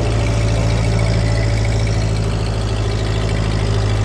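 1948 Ford 8N tractor's four-cylinder flathead petrol engine running steadily, with an even low hum.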